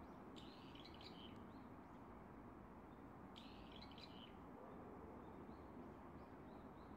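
Faint bird chirping in two short bursts about three seconds apart, over steady low background noise.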